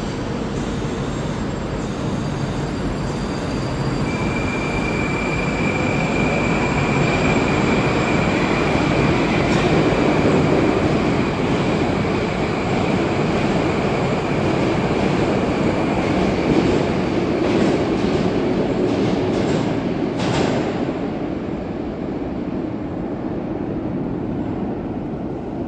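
Moscow metro 'Moskva'-type (81-765) train moving through the station, its running noise swelling and then easing off. A high steady whine sets in about four seconds in and lasts roughly twelve seconds, and a few clicks come near the end.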